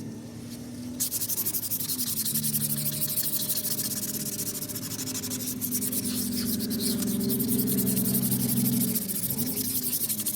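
Sandpaper rubbing on a car's painted bodywork: a steady, fast scratchy rasp that starts about a second in and cuts off abruptly near the end.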